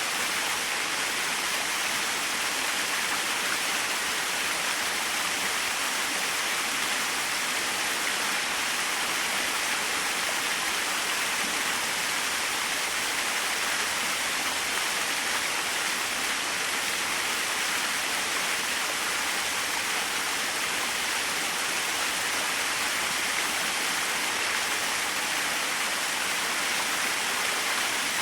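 Small waterfall: a steady, even rush of falling water with no pauses or changes.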